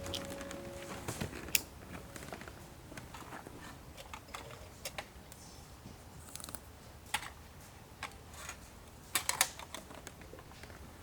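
Scattered light clicks and knocks of objects being handled, irregular and sparse, with a quick cluster of sharper clicks near the end.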